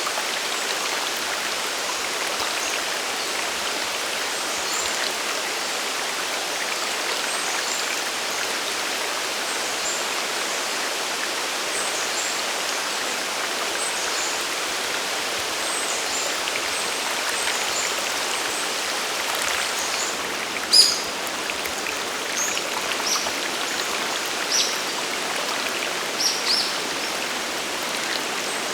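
Steady rushing of a mountain waterfall and the stream below it. A scatter of short, high ticks sounds over it in the second half, the loudest about 21 seconds in.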